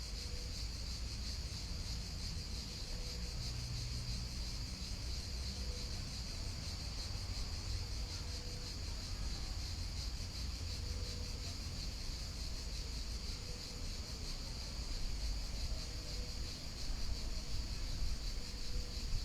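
Steady high chorus of chirping insects over a low rumble of calmly flowing river water, with a faint short note recurring every two to three seconds.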